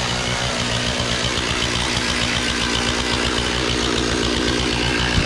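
A motor engine running steadily at an even speed.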